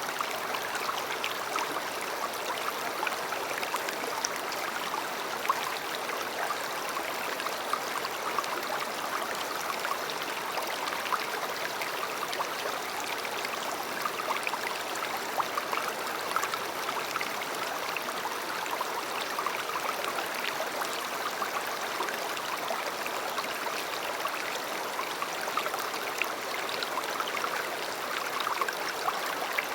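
River water flowing steadily over stones, a constant babbling rush with small splashes and trickles through it.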